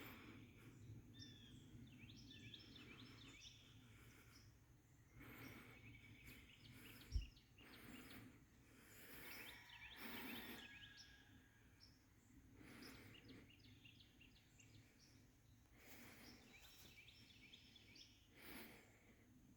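Faint outdoor ambience with small birds chirping and twittering. There is one brief low thump about seven seconds in.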